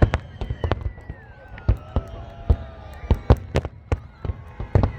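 Fireworks display: many sharp bangs going off in quick, irregular succession, with echoing booms among them.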